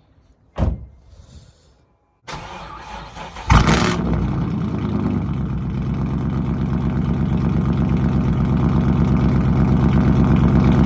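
Car engine cold start: after a short click, the starter cranks for about a second before the engine catches loudly, then settles into a steady idle.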